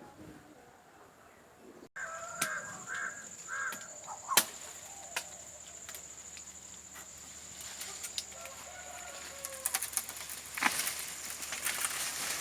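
Bird calls: a short run of four or five repeated calls a few seconds in, over a steady high whine and scattered clicks.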